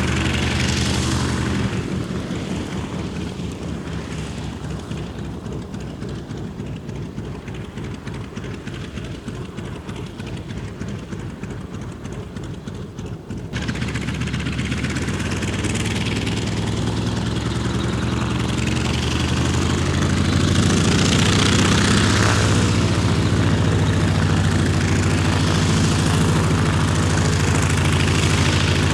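A North American T-28 Trojan's Wright R-1820 nine-cylinder radial engine and propeller running. The sound is quieter with a pulsing beat for the first half, jumps suddenly louder about halfway through, and keeps growing louder for several seconds before holding steady.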